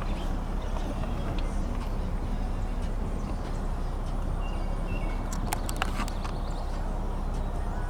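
Steady low rumble and hum, like a vehicle running, heard throughout. A few sharp clicks come about five and a half seconds in.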